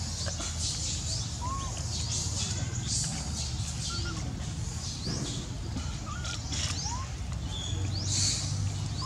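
Scattered short, high bird chirps, many quick upward sweeps, with a few lower arched calls, over a steady low rumble.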